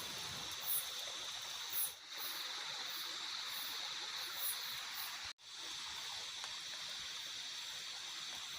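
Night forest ambience: a steady chorus of insects with short high chirps repeating over a constant watery hiss. The sound cuts out for an instant about five seconds in.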